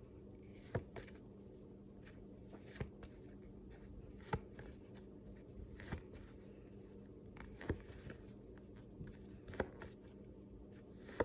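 Faint room tone with a steady low hum and soft clicks about every one and a half to two seconds.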